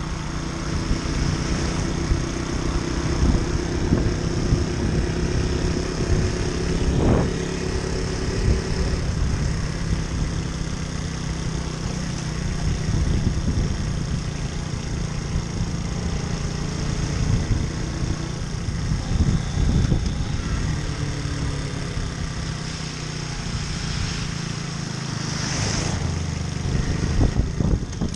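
Small moped engine running on the move, its note shifting up and down with speed, over a steady rush of wind and road noise. A short knock about seven seconds in.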